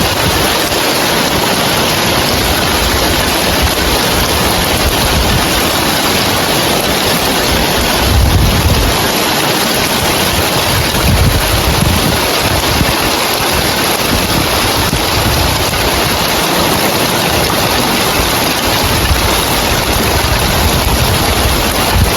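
Heavy rain falling on roof tiles, a steady dense hiss, with wind gusting across the microphone in low rumbles, strongest about eight seconds in.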